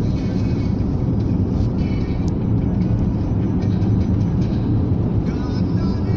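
Steady low rumble of a car driving over a rough, broken road surface under repair, heard from inside the cabin, with a car radio playing faintly.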